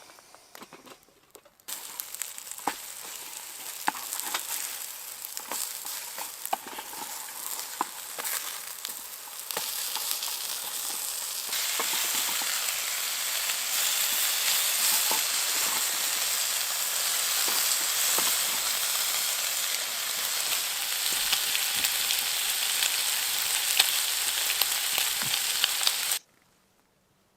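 Food sizzling and crackling in a frying pan. It starts about two seconds in, gets louder twice, and stops suddenly just before the end.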